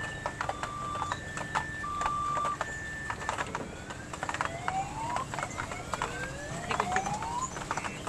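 Electronic two-tone siren sound, alternating a high and a low tone, stopping about two and a half seconds in. It is followed by a few rising whistle-like glides among scattered clicks.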